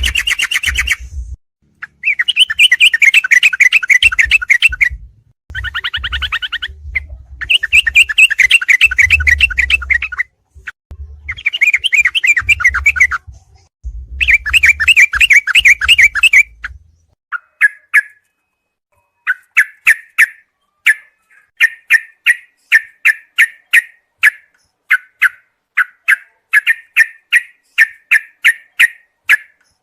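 Recorded song of the yellow-vented bulbul (trucukan), played as a training track: long, fast chattering phrases with a low rumble beneath them in the first half, then from a little past halfway a run of short, sharp calls at about two a second.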